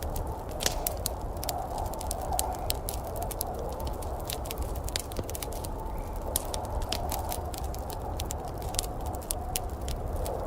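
Wood fire crackling in a fireplace, with frequent sharp pops and snaps over a steady low rumble and hiss.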